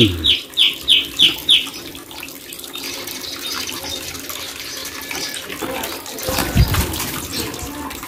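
Five or six short, sharp whistled calls in quick succession, about three a second, from an Asian fairy-bluebird. They are followed by a steady sound of running water, with a brief low bump about six and a half seconds in.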